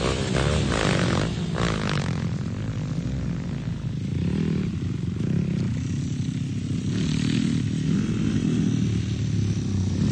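Dirt bike engines running and revving, the pitch wavering up and down in the first couple of seconds, then settling into a steady low drone.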